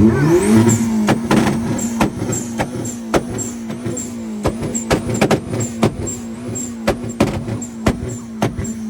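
A car engine held on a two-step launch limiter at a steady high rev, popping and banging sharply two or three times a second.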